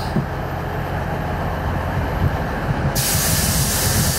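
Diesel passenger trains at a platform: a steady low engine rumble, joined about three seconds in by a sudden steady hiss of air.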